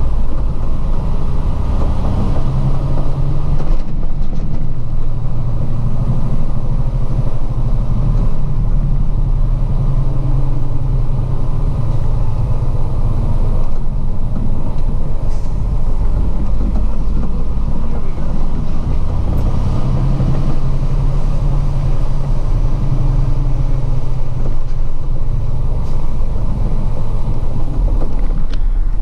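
Diesel truck engine running, a steady low drone whose pitch rises and falls a little at times.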